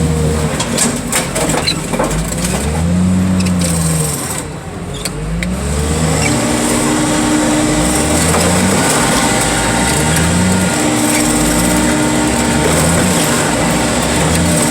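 Car crusher's engine and hydraulics working under load. For the first few seconds the engine pitch rises and falls over and over, then from about six seconds in it settles into a steadier whine.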